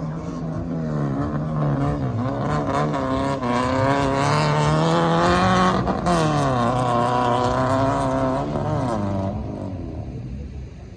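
Rally car engine revving hard on the dirt track, its pitch rising and falling with the throttle. It grows louder to a peak about halfway through, then the pitch drops and the sound fades as the car moves away.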